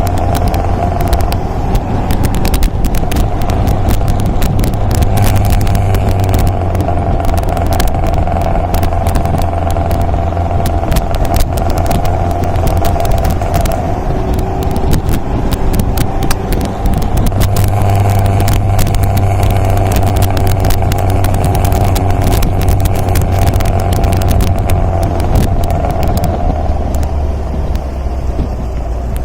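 MGA roadster's engine running steadily under way, with wind buffeting the microphone. The engine note grows louder for a few seconds past the middle, then settles lower near the end.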